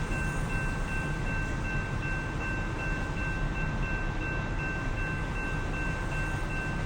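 A train rolling by with a steady low rumble, and two high ringing tones held steadily over it.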